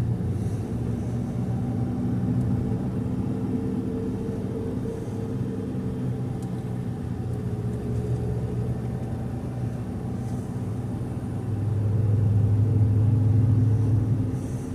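A car's engine and road noise heard from inside the moving car, steady, swelling louder for a couple of seconds near the end.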